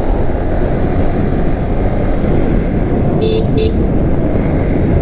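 Road and wind noise from a motorcycle ride, a steady low rumble and rush, with a vehicle horn giving two short toots a little over three seconds in.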